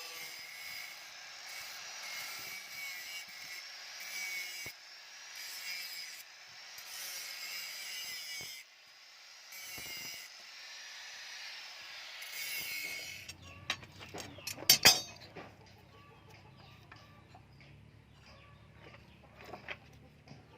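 Slow, rhythmic back-and-forth strokes of a hand tool rasping on metal, about one every one and a half to two seconds. The strokes stop about two-thirds of the way through, and a low hum follows with a few clanks and one loud knock.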